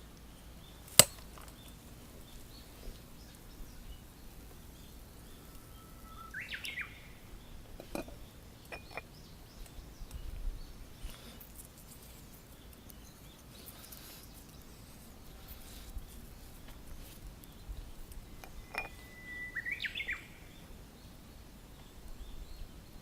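Outdoor ambience with a small bird calling twice in short chirping phrases, and a few sharp clicks and knocks, the loudest a single click about a second in.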